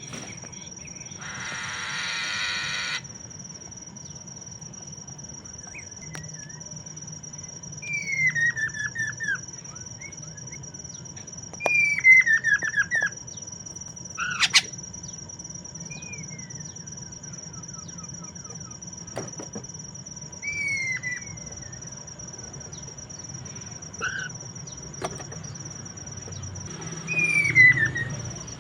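Poksay mandarin laughingthrush singing short, loud whistled phrases that slide down in pitch, one every few seconds. Under them runs a steady high insect-like whine, with a burst of hissing noise about two seconds in.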